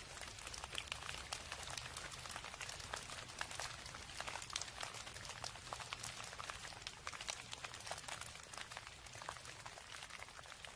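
Rain falling, many fine drops ticking irregularly over a steady hiss.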